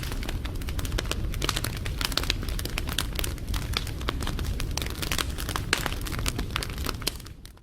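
Wood fire crackling, with many sharp pops and snaps over a low steady rumble. It fades out to silence near the end.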